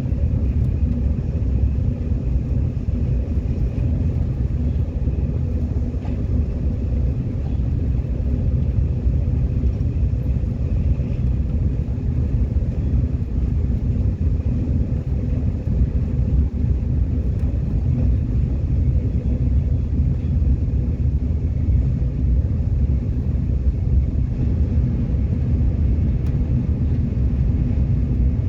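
Subway train running at steady speed: a continuous low rumble with a faint steady whine above it.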